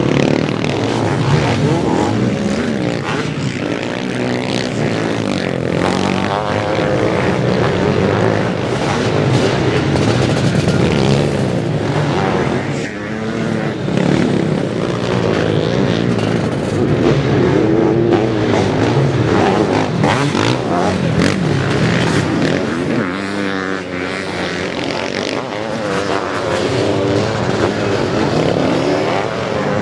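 Sidecar motocross outfits racing, several engines revving up and down over and over with pitches that rise and fall on top of each other.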